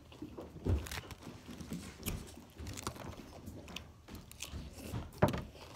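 Close chewing and biting of crisp raw salad vegetables: irregular crunches and crackles, with two louder knocks, one near the start and one near the end.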